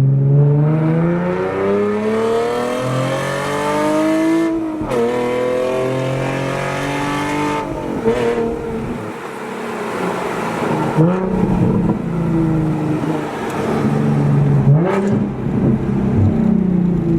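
Nissan 370Z's 3.7-litre V6 pulling hard with a loud exhaust, revs climbing and then dropping sharply several times as it shifts up through the gears.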